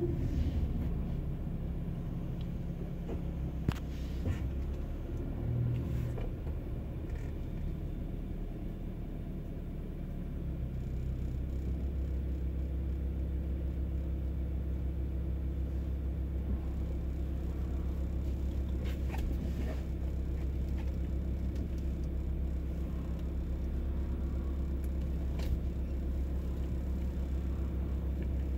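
Car engine and road rumble heard from inside the cabin: for the first ten seconds or so the car rolls slowly to a stop, then the engine idles with a steady low hum while the car waits at a red light. A few faint clicks come through now and then.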